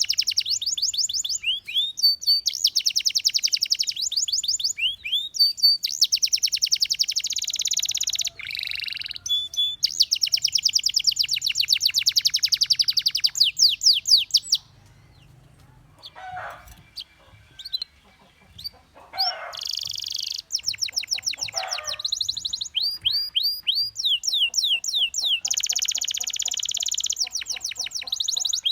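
Domestic canary singing: long, high-pitched trills and rolls of rapidly repeated notes, with a pause of a few seconds about halfway through before the song picks up again.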